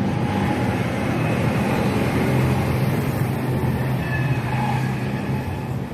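Steady low rumble with a hum, like a vehicle engine running, over a constant hiss of background noise.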